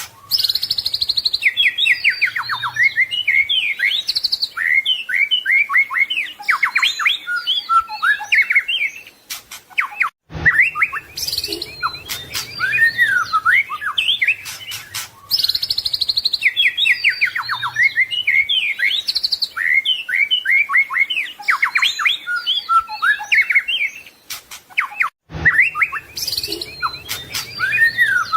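White-rumped shama (murai batu) singing a fast, varied song of sweeping whistles and rapid rattling notes without pause. The same passage repeats about every 15 seconds, with a sharp break at each join.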